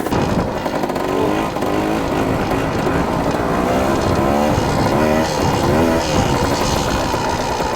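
Dirt bike engine running and revving, its pitch rising and falling several times as it pulls; the sound comes in suddenly and loud at the start.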